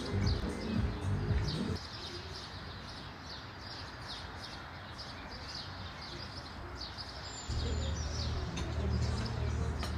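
Small birds chirping repeatedly in quick, short downward-sliding chirps over steady outdoor background noise. Low-pitched music fades out about two seconds in, and a low steady hum comes in near the end.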